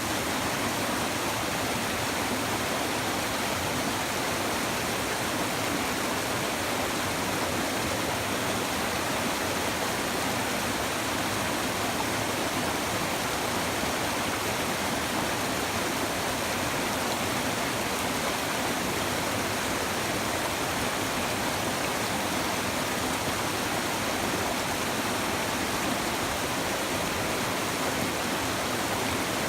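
A river's shallow water babbling and rushing steadily over stones.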